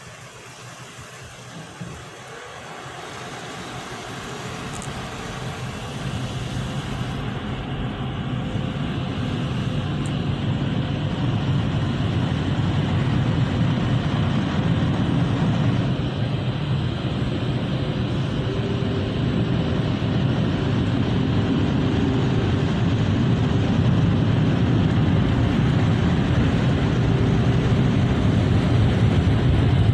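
A motor running steadily, growing louder over the first dozen seconds and then holding.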